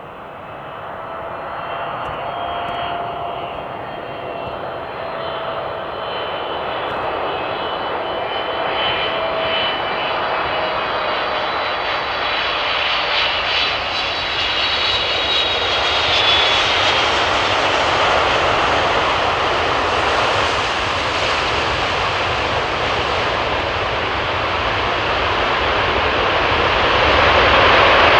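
Boeing 777 twin-jet airliner on landing approach, its engine roar growing steadily louder as it nears, with a thin whine on top.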